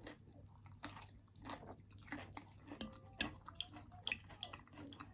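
A person chewing food close to the microphone: soft crunches and wet mouth clicks in an irregular run, several a second.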